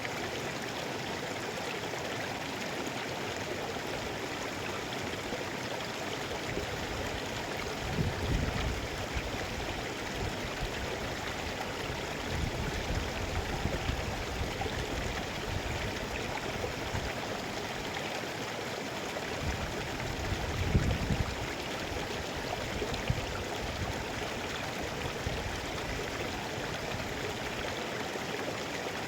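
Mountain river flowing steadily, an even rushing of water, with two brief low rumbles at about eight and twenty-one seconds in.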